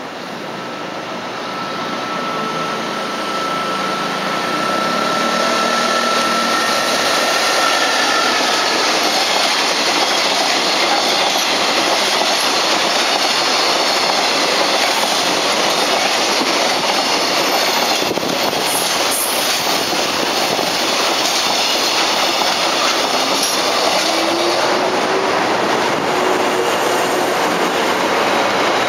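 Electric train running past on the tracks, its noise building over the first few seconds and then holding steady and loud. A thin high whine is heard for the first several seconds.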